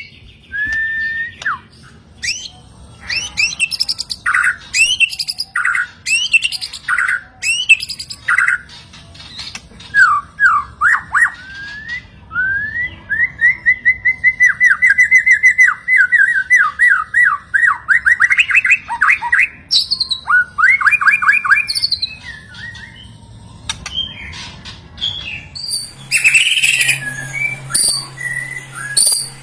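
White-rumped shama (murai batu) singing a varied song of loud whistles and harsh notes, with a long run of fast repeated falling notes in the middle. A low steady hum joins near the end.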